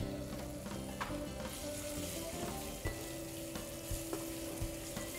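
Boneless chicken pieces sizzling in hot oil and masala in a pan while a steel spoon stirs them, with short clicks and scrapes of the spoon against the pan. The sizzle grows louder about a second and a half in. Background music with held tones runs underneath.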